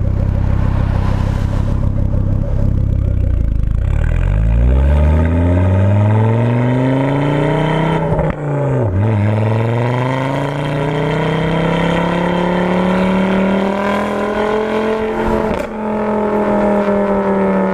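Ford Focus RS Mk2's turbocharged five-cylinder engine through a Cobra aftermarket exhaust: it runs low at first, then pulls away, rising steadily in pitch, with a sharp drop at a gear change about halfway through, another long climb, and a brief dip at a second shift near the end.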